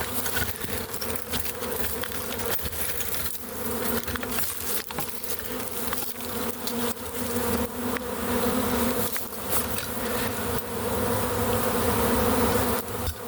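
A swarm of honey bees buzzing: a steady, dense drone of many bees in flight and crawling around the hive box, with a low pitch and its overtone holding steady throughout.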